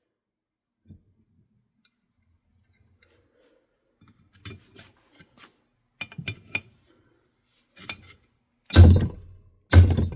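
Metal ceiling-fan parts clinking and scraping as they are worked apart by hand, then two heavy knocks about a second apart near the end.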